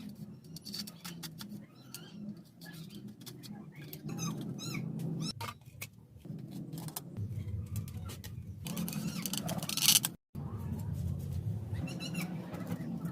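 A bird chirping in quick runs of short high notes, about four seconds in and again near the end, over a steady low hum with scattered clicks. A loud hiss comes shortly before a brief dropout.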